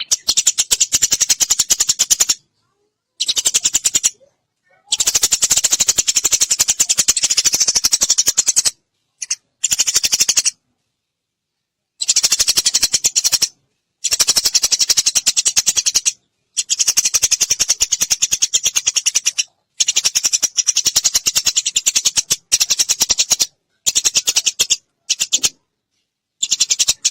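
Eurasian tree sparrow chattering: long bouts of rapid, dry, high chirps run together into a fast rattle, stopping and starting abruptly with short silent gaps about a dozen times.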